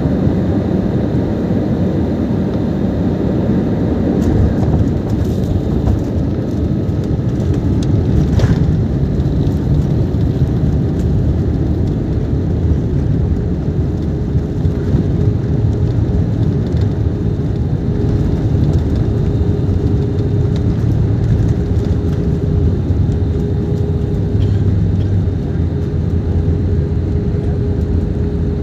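Steady low rumble of an Airbus A320 heard from inside the cabin during landing: engine and airflow noise, with one brief click about eight seconds in and a steady hum that comes in about halfway through and holds.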